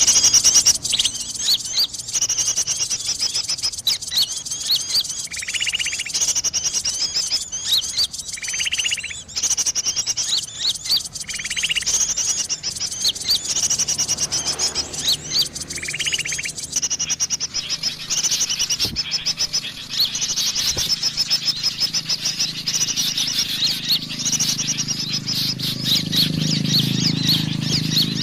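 Sooty-headed bulbul (kutilang) calling: quick high chirps repeat continuously, with a few short, lower whistled notes in between.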